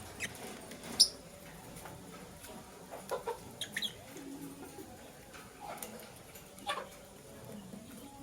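Lovebirds giving short, sharp chirps now and then: the loudest about a second in, a quick cluster of several around three to four seconds in, and a few more near the end.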